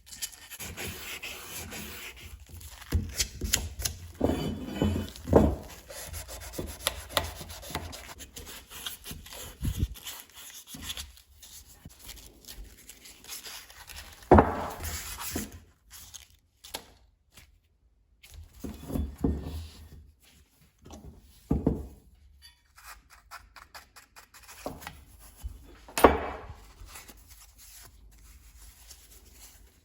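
Hand rubbing and scraping on the brass parts of a gasket cutter being cleaned up, coming in irregular bouts, with a few sharp knocks of the part being handled.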